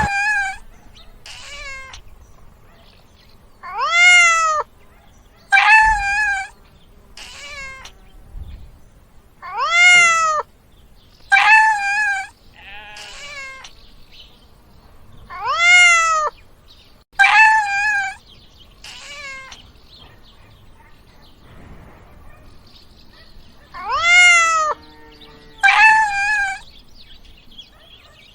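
Domestic cat meowing over and over. Loud, drawn-out meows that rise and fall come in pairs about every six seconds, with shorter, fainter mews between them.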